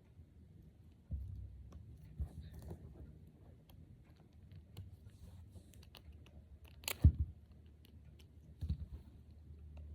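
Small plastic Brain Flakes discs clicking and crunching as they are handled and pushed together, with one sharp knock about seven seconds in.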